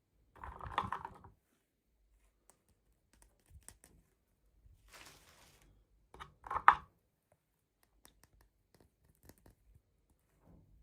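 Doll packaging being handled during unboxing: short rustles and scrapes with small clicks. The sharpest and loudest is just before seven seconds.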